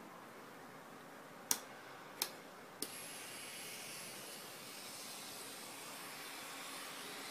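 Three sharp clicks, then about three seconds in a Micro Air electric pedicure drill starts and runs steadily with a thin, high whine and a hiss.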